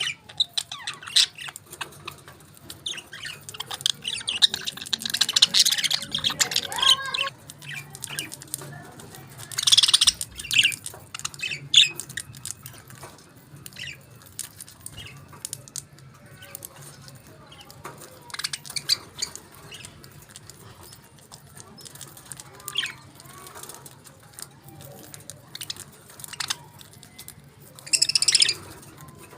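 Budgerigars chirping and chattering, with many small clicks throughout and louder bursts of chatter about five seconds in, around ten seconds and near the end.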